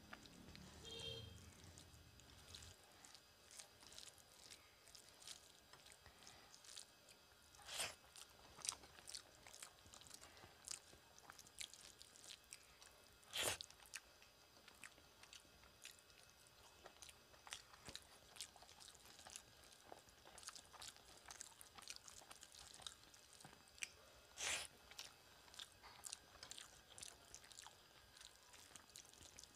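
Faint, close-up eating sounds of a person chewing mouthfuls of rice and curry eaten by hand: soft wet mouth clicks and smacks, with a few louder ones scattered through.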